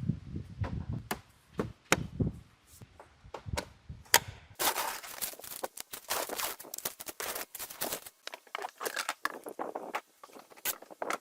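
Hand tools and metal engine parts being worked: a run of sharp separate clicks and knocks, turning about four seconds in to a busier clatter of rapid clicks and scraping.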